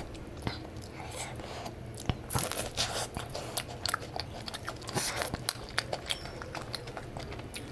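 Close-miked eating: a person biting and chewing a fried snack dipped in sauce, with many short sharp crunches and mouth clicks.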